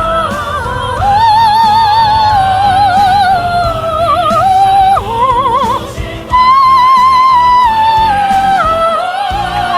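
A solo singer holding long, high notes with wide vibrato. The melody steps up to its highest and loudest note about six seconds in.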